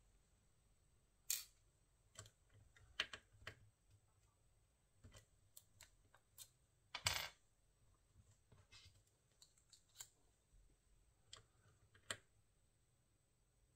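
Irregular light clicks and taps of small hard objects being handled, the loudest about seven seconds in.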